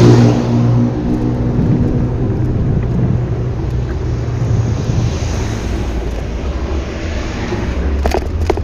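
A motor vehicle's engine hums close by in street traffic, a steady low drone that fades over the first two to three seconds and leaves a steady rushing traffic noise.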